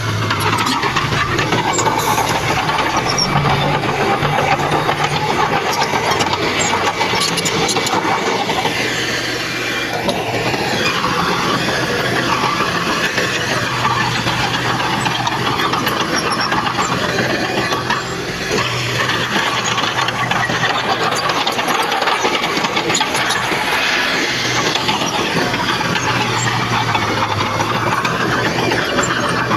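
Diesel engine of heavy earthmoving machinery running under load, with a squeal that rises and falls in pitch and light clanking throughout.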